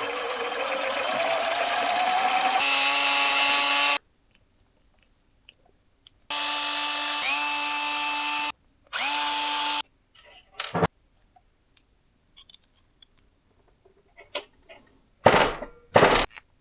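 A small electric motor running in bursts, in the manner of a cordless power driver: a whine that rises in pitch and then holds steady for about four seconds, and after a pause two shorter steady runs of about two seconds and one second. Scattered small clicks follow, and two short loud noisy bursts come near the end.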